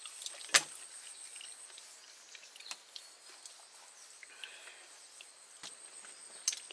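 Faint outdoor ambience: a steady high-pitched tone over a light hiss, broken by a few sharp clicks, the loudest about half a second in and two more near the end.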